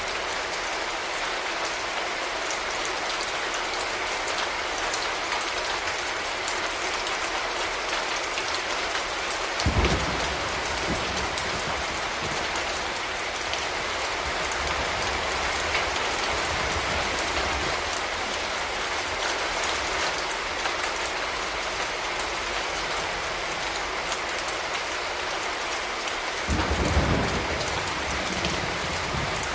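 Steady rain falling, with a low rumble about ten seconds in and again near the end.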